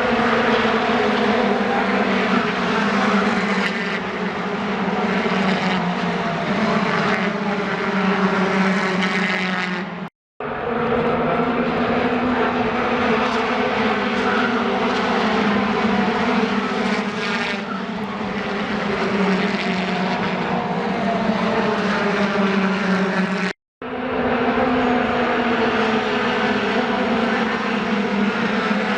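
A steady engine drone with a few even tones, broken off abruptly twice as if by cuts between clips.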